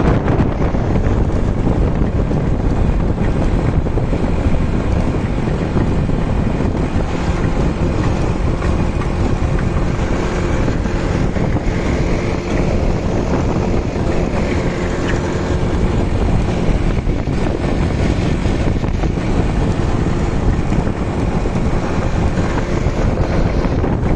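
Motorcycle engine running steadily while riding, with heavy wind buffeting on the microphone.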